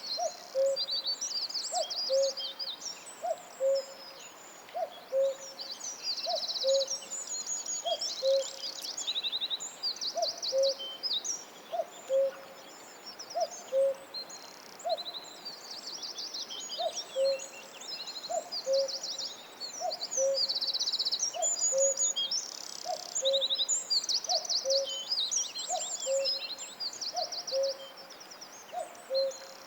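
Forest bird chorus: many songbirds trilling and chirping high, over a low two-note hooting call that falls from the first note to the second and repeats about once a second.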